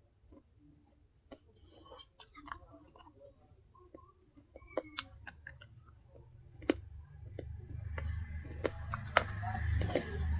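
Close-miked crunching and chewing of pieces of a baked clay pot: scattered sharp cracks and clicks, growing louder and denser with a low rumble in the second half.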